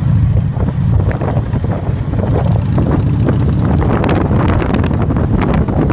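Motorcycle engine running steadily while riding, with heavy wind buffeting on the microphone.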